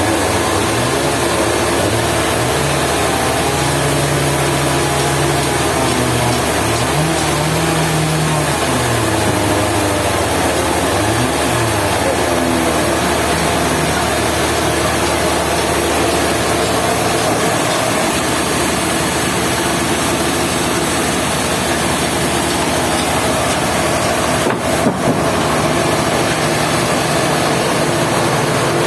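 Sawmill machinery running steadily; its engine pitch rises and falls a few times during the first dozen seconds, then holds steady.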